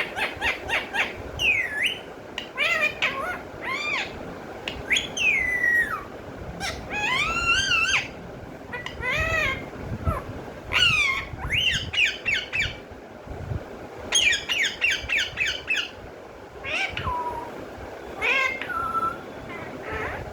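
Pet parrot calling: quick trains of short repeated chirps and squawks mixed with longer gliding, whistle-like notes.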